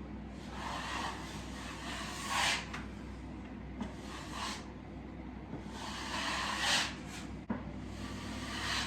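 Plastering knife dragged through joint compound on plasterboard: about five separate scraping strokes, with a sharp click near the end.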